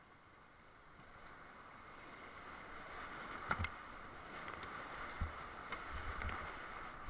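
Steady rush of whitewater creek rapids, growing louder, with a few dull thumps of the kayak or paddle knocking.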